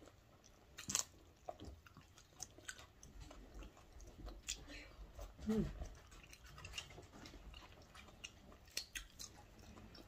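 A person chewing and eating food with scattered wet mouth clicks and smacks, a sharper click about a second in, and a short low falling hum-like sound about five and a half seconds in.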